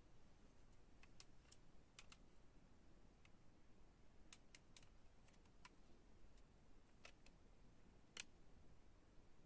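Near silence broken by faint, irregular light clicks and taps, a dozen or so, the sharpest about eight seconds in.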